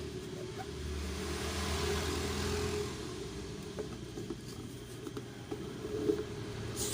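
Steady low engine-like rumble, with a soft hiss swelling about a second in and a few light clicks.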